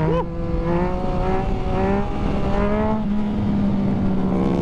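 Yamaha FZ-09's three-cylinder engine running under steady throttle while riding, its pitch climbing gently over the first couple of seconds and then holding, with wind rush over the helmet microphone.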